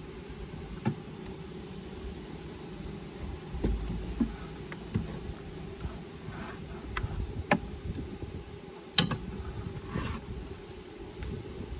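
Honeybees buzzing steadily around an opened hive, with scattered knocks and clicks from hive parts being handled.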